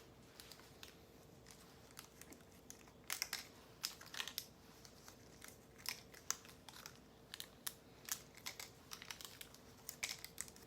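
Faint crinkling and tearing of tablet packaging, irregular small crackles and clicks as unit-dose medication packets are opened, over a faint steady hum.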